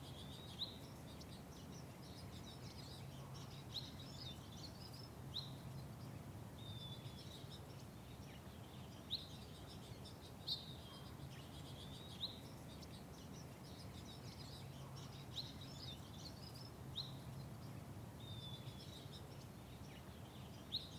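Small garden birds chirping: short, sharp high chirps every second or two, some in quick clusters, over a steady low background rumble.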